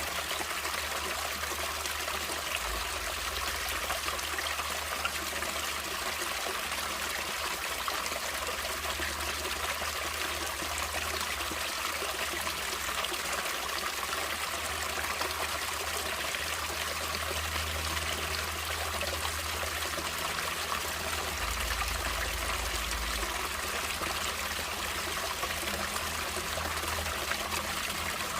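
Natural stream water flowing, a steady, even rush of water.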